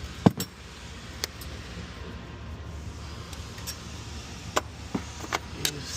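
Hand tools clinking against metal engine fittings while working loose the fuel return line at the fuel rail: about six sharp clicks, the loudest just after the start and a cluster of them near the end, over a steady low hum.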